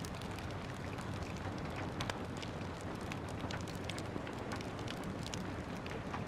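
Gentle rain falling steadily, with the scattered sharp pops and crackles of a wood fire burning in a fireplace.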